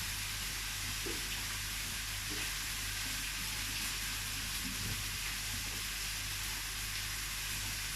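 Chopped chicken thighs and onions frying in a deep pan of rapeseed oil, with a steady, even sizzle.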